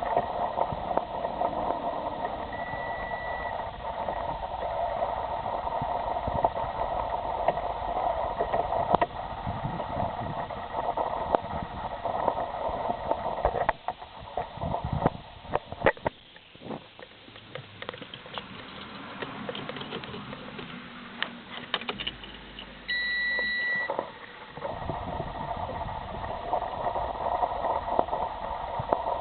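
2000 Seat Leon Mk1 1.6 making a steady mechanical drone, which stops for about ten seconds in the middle with a few clicks and then starts again. A short electronic beep sounds about three seconds in, and another comes just before the drone returns.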